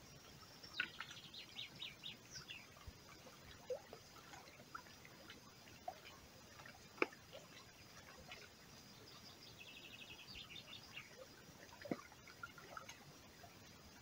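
Faint songbird song: scattered high chirps and whistles, with a rapid trill of repeated notes about ten seconds in. A single sharp click about seven seconds in stands out above it.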